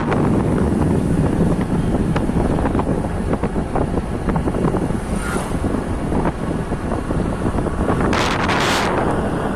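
Wind buffeting the microphone of a moving bike, a loud steady rushing with road and vehicle noise underneath, and a brief high hiss near the end.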